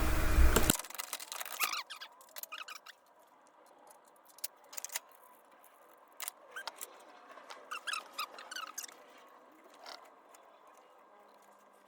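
Faint scattered clicks and short squeaks from pliers and hands working a plastic electrical connector under a car's battery tray.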